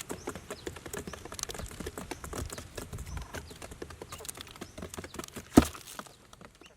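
Rapid, irregular clicking and tapping, with one loud thump about five and a half seconds in, after which the sound fades out.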